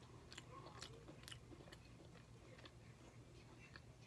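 Faint chewing with scattered soft mouth clicks, from a person eating corn on the cob.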